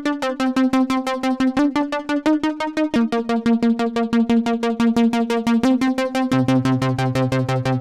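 Korg Prologue analog synthesizer playing a fast, evenly repeating arpeggio of short plucky notes, the chord shifting about three seconds in and again near six seconds, where a low bass note joins.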